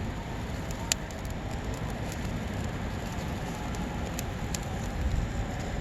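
Campfire of dry wood and bark burning, with a few sharp crackles and pops, the loudest about a second in, over a steady low rumble.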